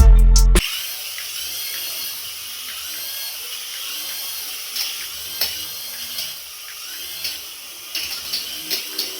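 A small electric toy motor whirring steadily, its pitch wavering, with a few sharp plastic clicks and taps, most of them near the end.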